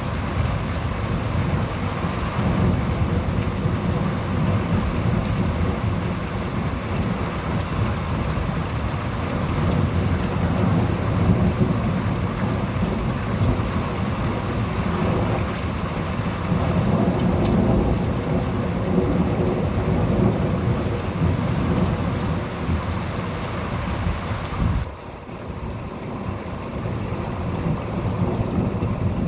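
Thunderstorm: steady heavy rain with low rumbling thunder. Near the end the rain's hiss abruptly thins and drops, then builds again.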